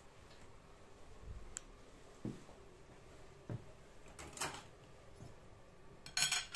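Scattered faint knocks and clatters of things being handled in a small room, with a short rustling burst midway and a louder brief hiss near the end.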